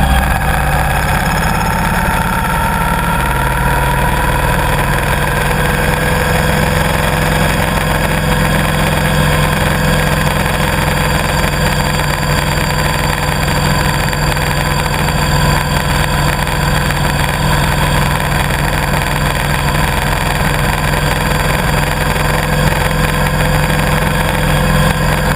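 Motorcycle engine running steadily, its pitch rising slightly over the first few seconds and then holding level.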